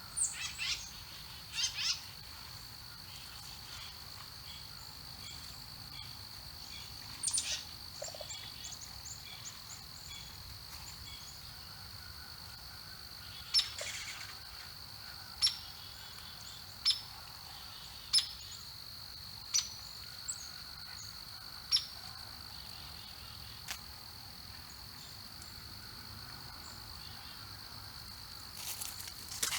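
Outdoor wildlife ambience: a steady high-pitched insect drone under scattered bird chirps, and midway a run of single sharp chirps repeated about every second and a half.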